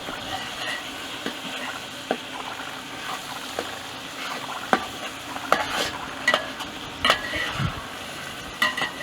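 Potatoes sizzling as they fry in a pan, stirred with a utensil that knocks and scrapes against the pan, the knocks coming more often in the second half.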